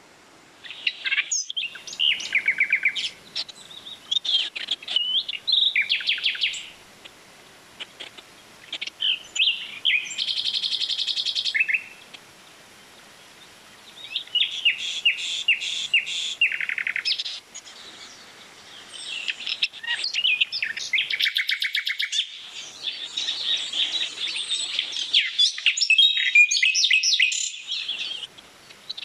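Songbirds singing in the trees: a run of varied chirps, whistled phrases and quick trills, pausing briefly a few times.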